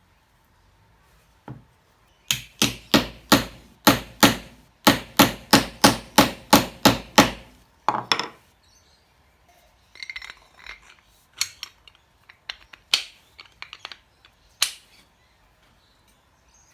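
Hammer blows on metal work: a fast, even run of about twenty sharp strikes, roughly four a second, then a pause and a scattering of lighter taps.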